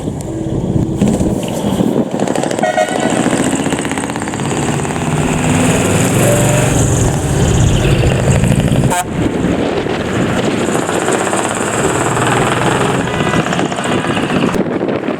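Heavy diesel trucks with loud, modified exhausts running and pulling away, with a short horn toot about three seconds in.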